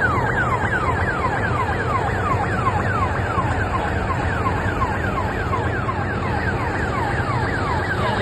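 Farm machinery engine running steadily, with a high, falling electronic chirp repeating evenly about three times a second over it, like a warning alarm.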